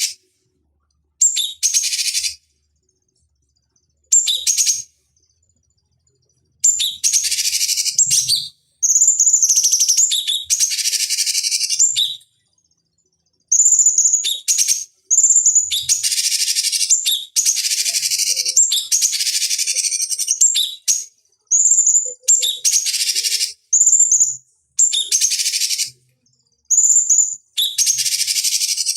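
Cucak cungkok singing: loud, high, chirping song phrases, each often opening with a clear whistled note, repeated over and over with short silent breaks between them.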